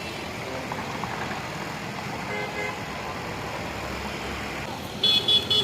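Steady road traffic noise, then a vehicle horn gives two short, high-pitched beeps in quick succession near the end.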